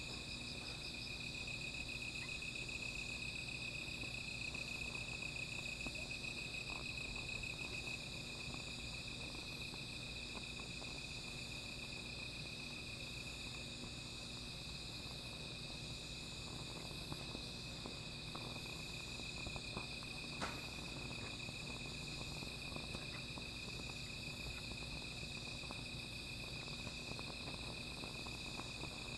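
A chorus of night insects trilling steadily at a high pitch, one shrill trill strongest over the first several seconds. Faint scattered crackles of a small fire come in from about halfway.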